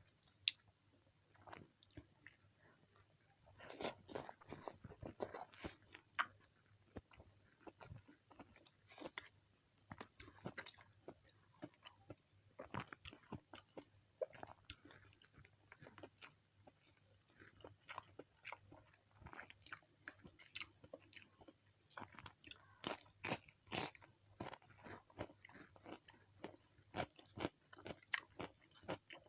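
Close-miked eating: a person chewing and biting crunchy food, with irregular crunches and mouth clicks that come thicker near the end.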